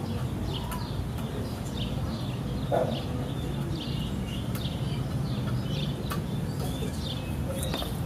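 Small birds chirping over and over in short, irregular calls, over a steady low hum, with one short lower call about three seconds in.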